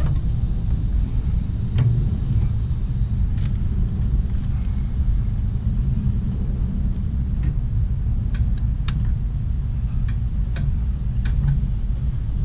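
Scattered light clicks and clinks of hand tools and small metal parts being worked on a mower transaxle, over a steady low rumble.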